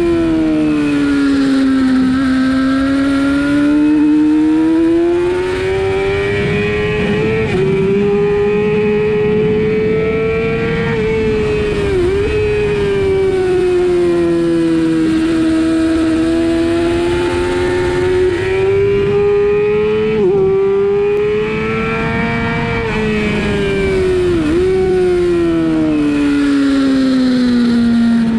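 Sportbike engine at high revs while lapping a race track. Its pitch swells and falls repeatedly, with several brief sharp dips at gear changes, over a steady rush of wind noise.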